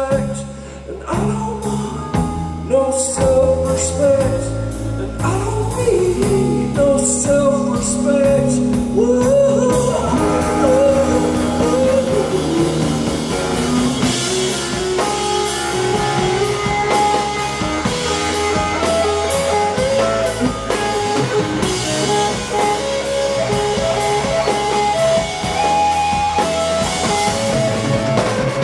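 A rock band playing live, with a voice singing over guitar at first; about ten seconds in the band fills out, with drums and cymbals joining in.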